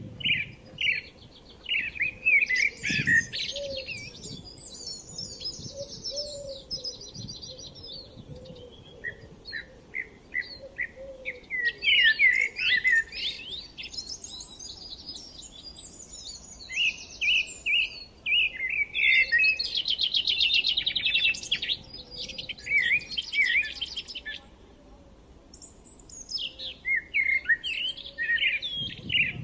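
Several songbirds chirping and singing at once, with quick repeated chirps and trills overlapping in busy bursts. They ease off briefly twice before starting up again.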